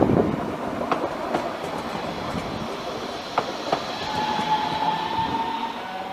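A passing train's wheels clicking over the rail joints, fading as it moves away. A thin high-pitched squeal sets in about four seconds in.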